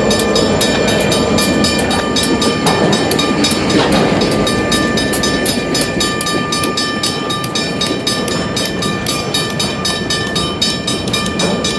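Freight train rolling past, its wheels clicking over the rail joints in a quick, steady rhythm over a continuous rumble.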